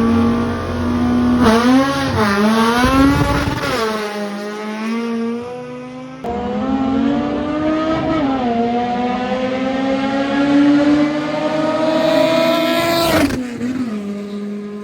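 A car's engine at full throttle down a drag strip, climbing in pitch and dropping back sharply at each gear change. A fresh acceleration starts abruptly about six seconds in and climbs steadily until it cuts off near the end.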